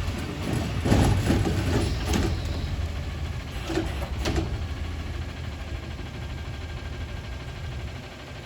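Garbage truck engine idling with a steady low rumble, with a cluster of clunks and knocks about a second in and two more knocks near four seconds.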